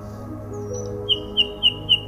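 Jazz piano music playing under birdsong. In the second half, a bird gives four quick chirps about a quarter of a second apart.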